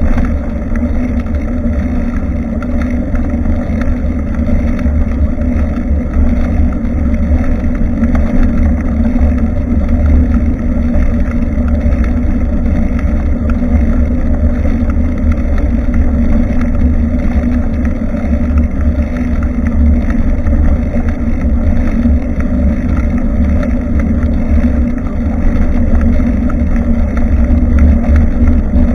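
Steady loud wind rumble on the microphone of a rear-facing camera on a moving bicycle, mixed with the rolling noise of the bike on the road.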